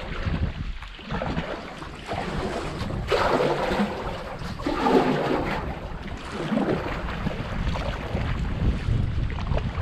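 Water rushing and splashing around a kayak, loudest for a few seconds in the middle, with wind buffeting the microphone.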